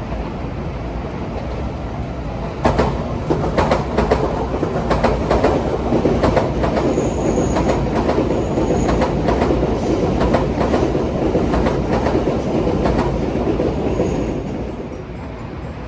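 A train passing on the rails. From about three seconds in, its wheels click repeatedly over the rail joints above a steady rumble, with a faint high squeal now and then, fading near the end.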